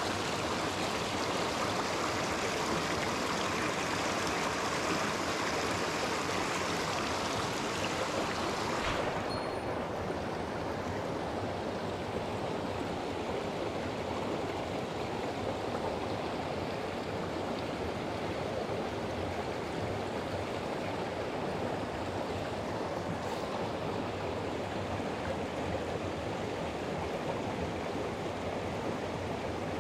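Mountain stream running steadily over rocks. About nine seconds in there is a brief click, and after it the sound turns duller.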